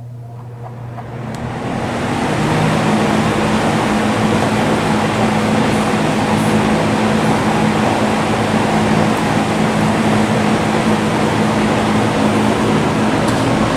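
Vintage JCPenney 9711 box fan, a Lakewood with a General Electric motor and three metal blades, coming up to high speed over the first couple of seconds and then running steadily on high: a loud rush of air over a low, even hum.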